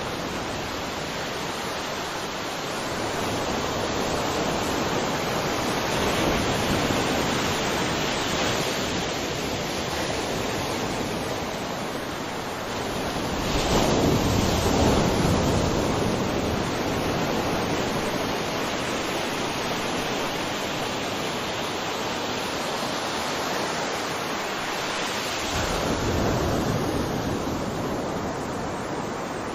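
Sea waves breaking on a shore: a continuous wash of surf, with a bigger wave swelling up about halfway through and another near the end.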